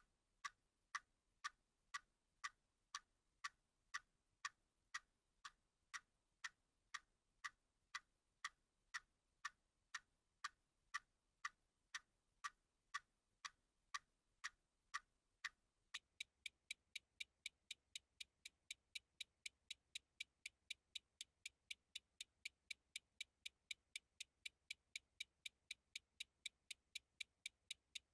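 A clock ticking steadily, about two ticks a second; about halfway through it switches to a faster, higher-pitched ticking, about three a second.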